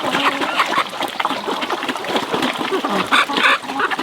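Farm animals calling in a busy run of short, overlapping calls, with a louder call about three seconds in.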